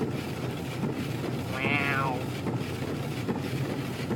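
Steady low rumble of a car's engine and tyres heard from inside the cabin as it drives slowly through deep snow in four-wheel drive.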